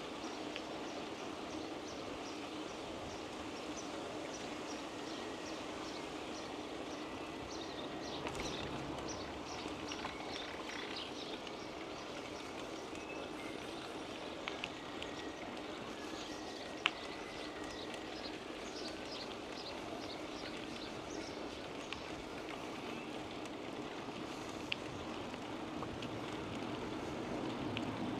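Steady rolling and wind noise of a bicycle ride. Over it, a bird chirps in quick rows of short, high notes, a few a second, for much of the time, and there are a couple of sharp ticks.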